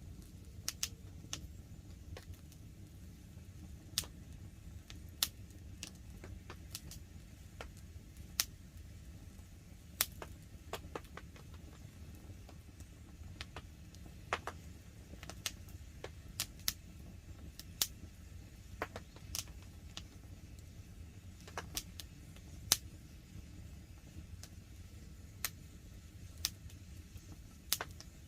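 Wood campfire crackling, with irregular sharp pops and snaps over a low, steady rumble; the loudest pop comes near the end.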